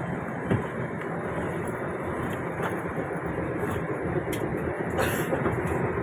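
Narrow-gauge toy train rolling along the track, a steady rumble and rattle that grows a little louder toward the end. One sharp knock about half a second in.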